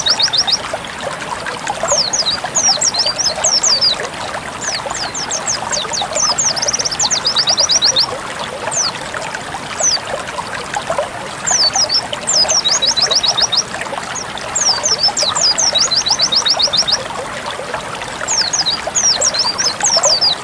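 White-eye (pleci) song in repeated bursts of rapid high chirps, each ending in a fast even trill, with short pauses between phrases. Steady trickling, running water underneath.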